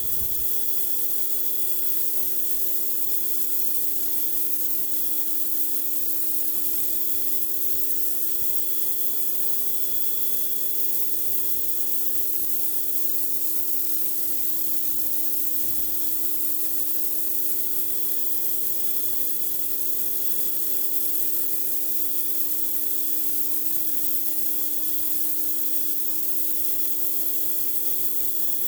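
Pressure washer running steadily, its high-pressure water spray blasting a dirty driveway: a constant hiss with an even machine hum beneath it.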